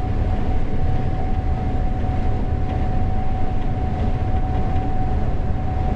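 Gleaner S98 combine running while harvesting corn, heard from the operator's cab: a steady low rumble of engine and threshing machinery with a constant high whine over it.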